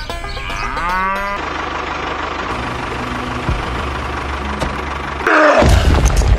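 A steady low engine-like drone, with a short wavering tone about half a second in and a loud drawn-out call that bends in pitch near the end.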